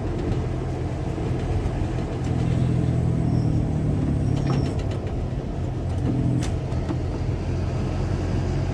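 Car engine and road noise of a moving car, heard from inside it: a steady low drone that swells a little a few seconds in.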